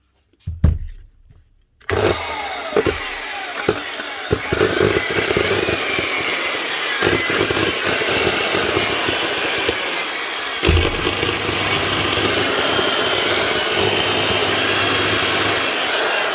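Makita GA9040 9-inch angle grinder switched on about two seconds in and running unevenly, with a high whine broken by irregular cracks and dips: spluttering from a bad motor. A thump comes just before it starts.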